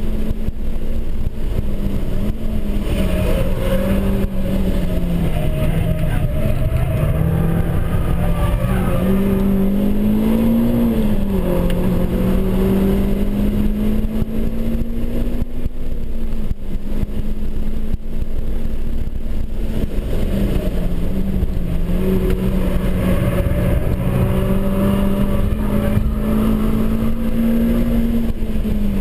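Renaultsport Clio Cup 200's 2.0-litre four-cylinder engine heard from inside the cabin, held at high revs under sustained throttle. The pitch stays mostly steady, with a brief dip about six seconds in, a rise and fall around ten seconds in, and a small dip about two-thirds of the way through, over road and wind noise.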